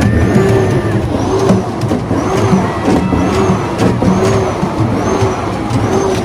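Many truck air horns and horns honking together in a loud, unbroken din. Steady horn tones stand out over the mass, and there is a rise and fall that repeats about once a second.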